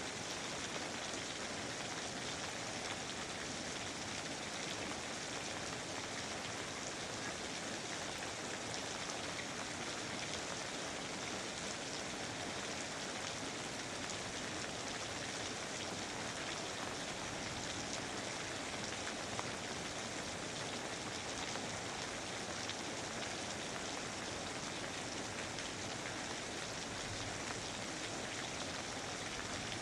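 Steady rain falling, a dense even hiss of drops on foliage and ground.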